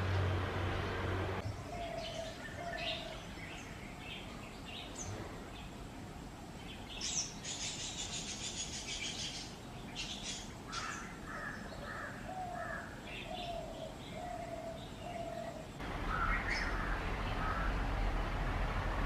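Several wild birds calling around a bird bath: runs of short low repeated notes, a burst of high chattering about halfway through, and scattered chirps. A low hum is under the bird calls for the first second or so and comes back near the end.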